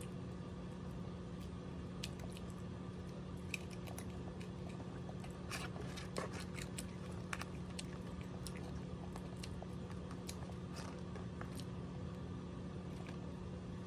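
A person chewing fried chicken and fries close to the microphone, with scattered soft crunches and small clicks, over a steady low hum.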